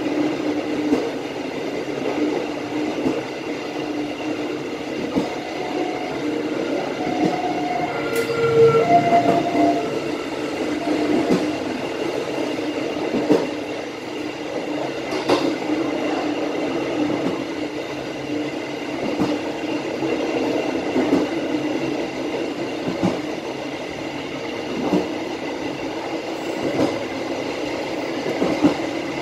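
Passenger train running along the track, heard from the rear of the last carriage: a steady rumble of wheels on rails with irregular clicks over rail joints, and a few brief squealing tones about six to nine seconds in.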